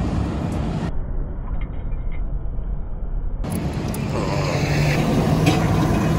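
Road traffic passing: motor vehicles running by with a steady low rumble.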